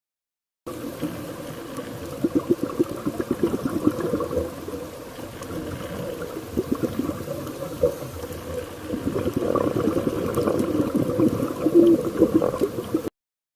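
Bubbling, gurgling water, irregular and busy, starting and cutting off abruptly.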